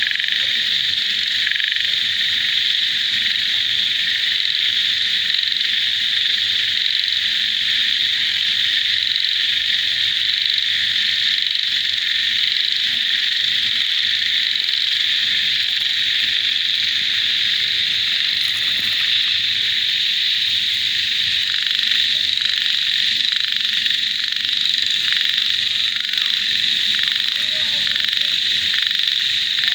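A dense chorus of many frogs calling together, with insects mixed in. It makes a continuous, high-pitched wall of sound that never pauses.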